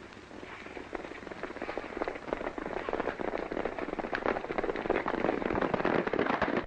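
Several horses galloping, a dense clatter of hoofbeats that grows louder as they come closer, then stops abruptly.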